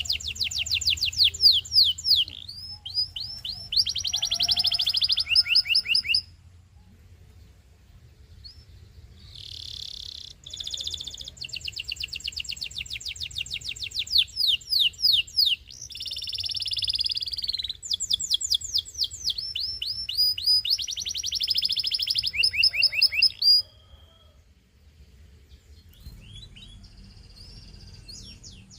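Canary singing long phrases of fast trills and rolls, each a rapid run of repeated high notes. The song breaks off twice for a few seconds and starts again near the end.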